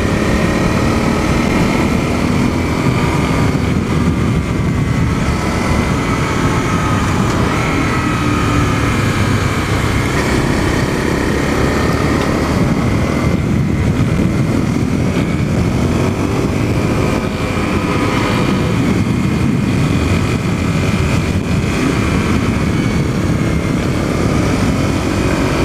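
Dual-sport motorcycle engine running under way, its pitch slowly rising and falling with the throttle, over a steady heavy rushing noise.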